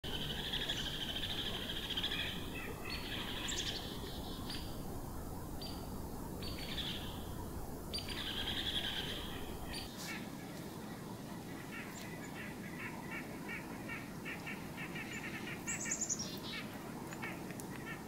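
Small wild birds calling in winter woods. Repeated buzzy calls fill the first half, then a run of short, evenly spaced notes follows. Near the end comes a brief high series of notes falling in pitch.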